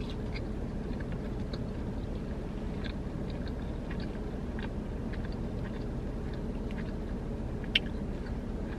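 Close-miked chewing of a breaded fried chicken finger: small wet and crunchy mouth clicks scattered over a steady low hum, with one sharper click near the end.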